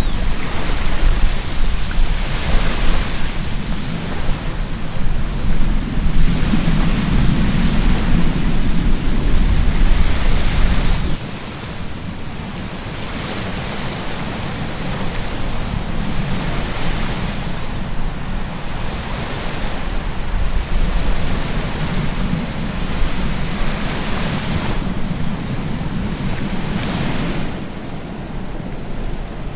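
Ocean surf breaking on a beach, swelling and easing every few seconds, with wind buffeting the microphone. The low wind rumble drops away suddenly about eleven seconds in, leaving the surf.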